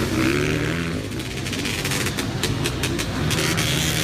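Several dirt bike engines running and revving together, with a run of sharp clicks through the middle.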